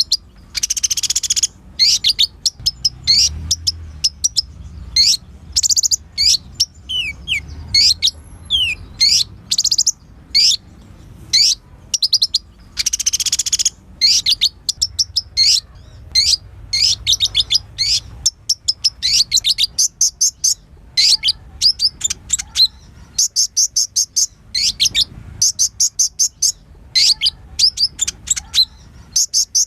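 Sunbird of the kind called kolibri ninja singing a long, fast run of high, sharp chirps and rattling trills in quick bursts, with a few short sliding notes among them.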